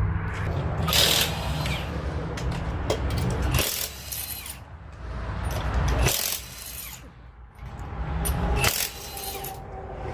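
Short bursts of a pneumatic impact wrench at a tire shop, about every two and a half seconds, over a low rumble.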